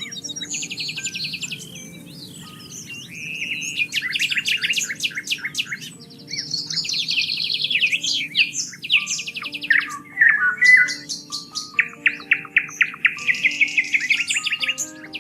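Songbirds singing in quick, overlapping trills and chirps, one phrase following another. Soft, slow instrumental music plays low underneath.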